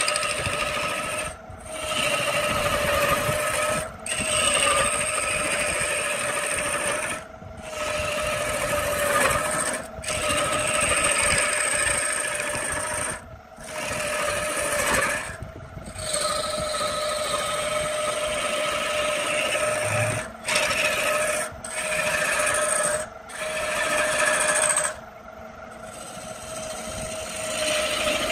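Wood lathe running with a steady whine while a turning tool scrapes the spinning wood, in stretches of a few seconds that cut off and restart abruptly, over a dozen times.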